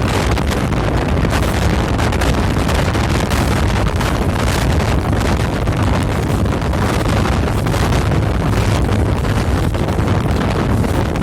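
Strong wind buffeting the microphone over the steady low drone of a boat's engine.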